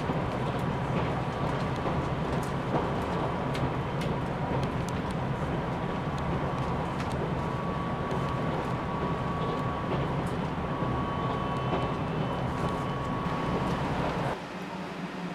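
JR Shikoku 8000 series electric train running at speed, heard from inside the passenger car: a steady low rumble of wheels on rail with a thin whine and occasional faint clicks. The noise drops abruptly to a lower level near the end.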